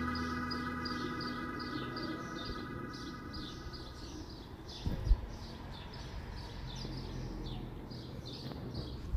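A small bird chirping over and over, short falling high chirps at about three a second. Organ music fades out in the first few seconds, and there is a dull thump about five seconds in.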